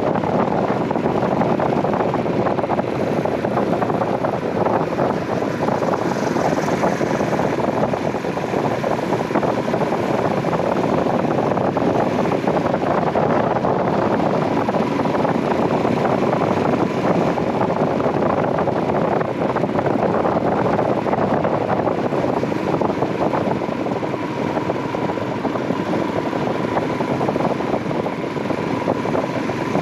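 Royal Enfield Himalayan 411's single-cylinder engine running at a steady cruising speed, mixed with wind rush on the microphone. The sound stays even, with no gear changes or revving.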